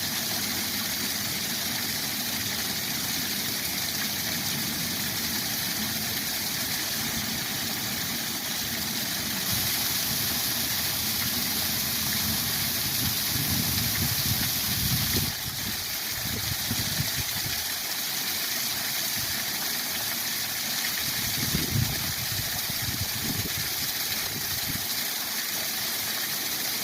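Waterfall rushing steadily, a dense even hiss over an uneven low rumble; for a few seconds in the middle the hiss turns brighter, then drops back abruptly.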